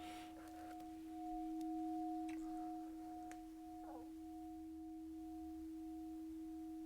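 A steady held tone of two pitches, like a drone or hum, with a few faint clicks and a brief falling glide about four seconds in.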